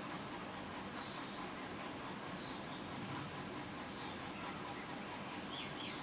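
An insect trilling in short even pulses, about three a second, pausing briefly past the middle, with a bird chirping about once a second and a quick run of short falling chirps near the end, over a faint steady hiss.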